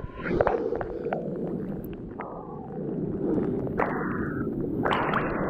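Splashing in a cold river pool as a swimmer moves through the water, with several louder splashes about two, four and five seconds in, over the steady rush of the river.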